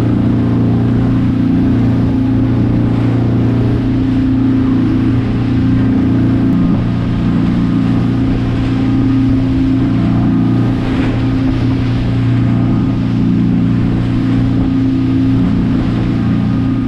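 Motorboat engine running steadily under way, a constant low hum.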